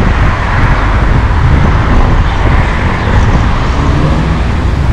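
Strong wind buffeting the microphone, a loud steady rumble with a hiss over it.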